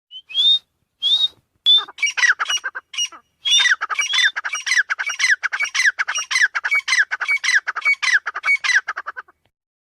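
Female titar (francolin) calling: a few short rising whistled notes, then a fast run of harsh, squawking notes, about three a second, that stops about nine seconds in.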